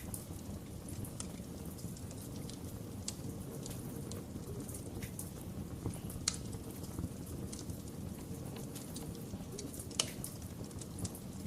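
Fireplace wood fire crackling: a steady low rush from the flames with scattered sharp pops and snaps, the two loudest about six and ten seconds in.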